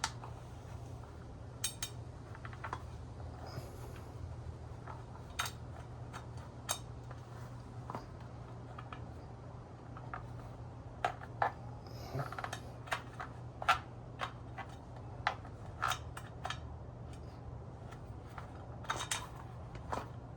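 Small metal washers and hardware being handled, giving scattered light metallic clicks and clinks, busiest in the second half, over a steady low hum.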